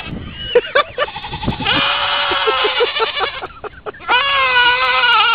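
Goats screaming in loud, human-like bleats: a few short calls, then two long drawn-out screams, the first starting a little under two seconds in and the second about four seconds in.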